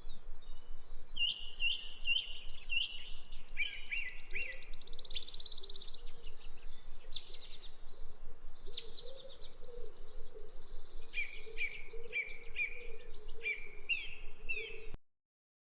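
A songbird singing a varied song of short phrases, each repeated several times, with a rapid buzzy trill twice. The sound cuts off suddenly near the end.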